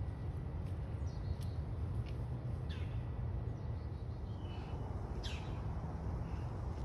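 Several short, high bird chirps, each falling in pitch, the two clearest about three and five seconds in, over a steady low outdoor rumble.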